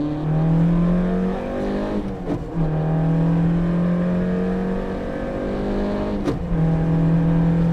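Peugeot 205 rally car's engine heard from inside the cabin, accelerating hard with the pitch climbing steadily in each gear. There are two quick upshifts, a little over two seconds in and about six seconds in, each dropping the pitch.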